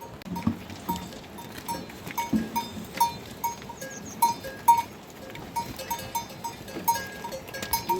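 Bells on livestock clanking irregularly, a few strikes a second, as the animals move about. The loudest strikes come about four and a half seconds in.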